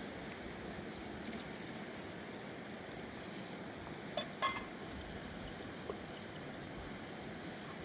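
Steady rushing of a fast mountain river, with two short sharp knocks about four seconds in and a lighter one near six seconds.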